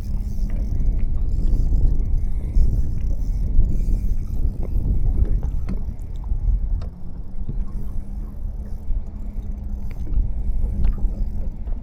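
A small boat's motor running with a steady hum over a low rumble of wind and water.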